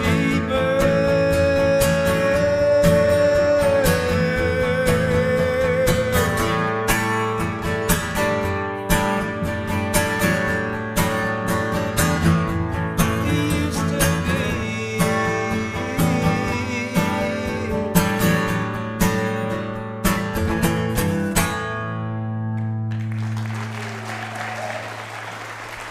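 Acoustic guitar playing the closing bars of a folk song, with a long held sung note near the start. The last chord rings out and audience applause begins about three seconds before the end.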